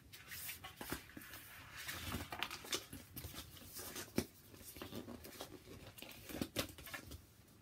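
Rustling and light tapping as a picture book is handled: irregular paper and cover rustles with scattered small clicks.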